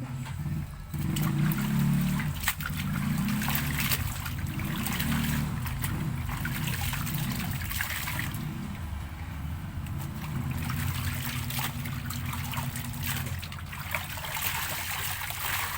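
Water trickling and splashing during laundry washing, with scattered small knocks, over a steady low hum.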